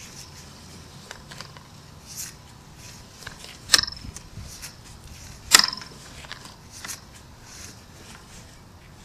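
Two sharp metallic clicks about two seconds apart, each with a brief high ring, among faint scattered ticks and light handling noise as a sewer inspection camera's push cable is worked through the drain.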